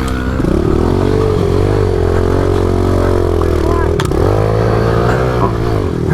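Small pit bike engine revving under throttle. Its pitch climbs, holds, dips briefly about four seconds in, climbs again and eases off just before the end. There is a sharp click about four seconds in.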